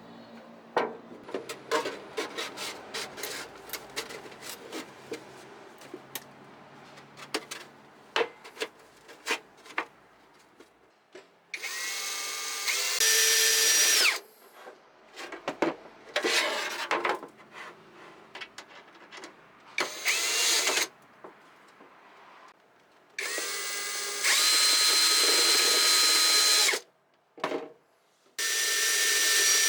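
Small clicks and taps of metal and tool handling, then a power drill runs in four short bursts. Each burst starts part-speed, then jumps to a steady high whine and stops abruptly.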